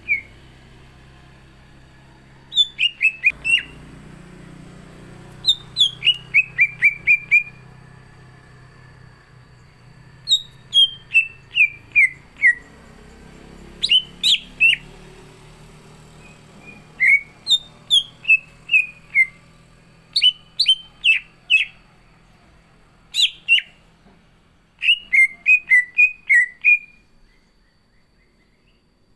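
Green leafbird (cucak ijo) singing loud bursts of short, sharp chirped notes. Each run of notes steps downward in pitch, and about eight such phrases come with brief pauses between them.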